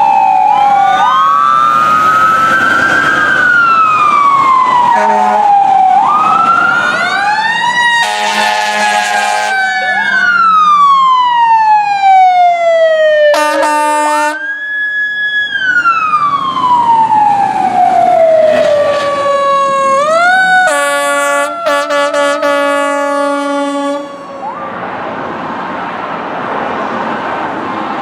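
Fire truck sirens wailing, each winding up in pitch and then slowly coasting down, cut into by several blasts of a fire truck air horn. A passing engine rumble with road noise takes over near the end.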